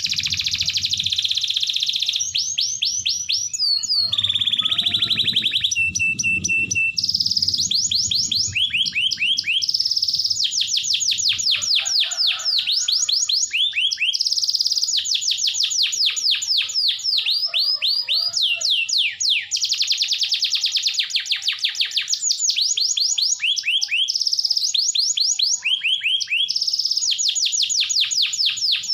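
Domestic canary singing a long, unbroken song of fast rolling trills, broken by a briefly held whistled note about six seconds in. This is the kind of continuous song played to provoke other canaries into singing.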